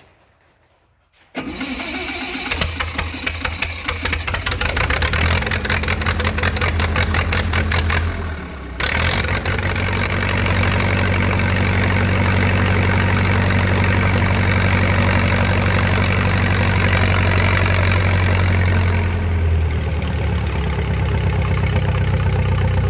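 An old engine cranked and started: it catches about a second and a half in and runs unevenly, stumbles briefly about eight seconds in, then runs steadily and settles to a lower speed near the end.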